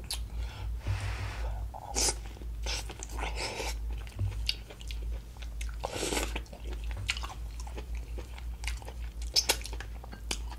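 Biting and chewing sauce-dipped corn on the cob: wet crunching of kernels with small mouth clicks, the loudest bite about six seconds in.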